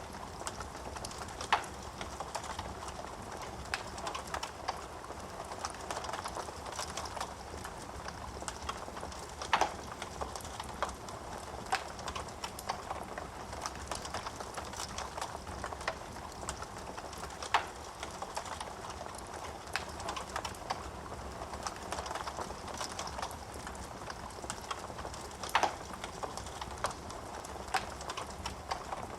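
Wood fire crackling in a fireplace: a steady hiss of small snaps, with four louder pops about eight seconds apart.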